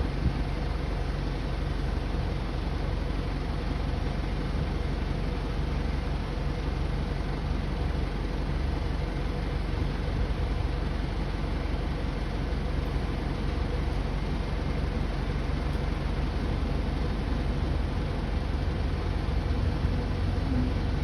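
Steady rumble and hiss of a Boeing 737 during pushback, with a faint constant hum and no change in level.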